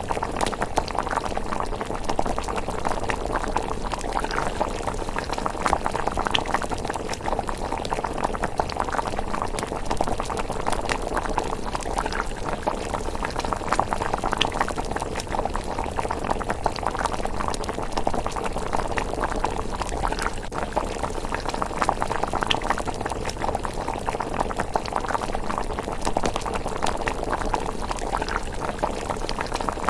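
Thick miso rice porridge bubbling steadily in a pot at a simmer, with many small irregular pops of bursting bubbles.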